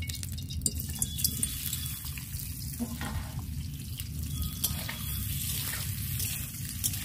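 Boiled potatoes frying in hot refined oil in a metal wok, a steady sizzle, with several sharp clinks of a metal spatula against the pan as they are stirred. A steady low rumble runs underneath.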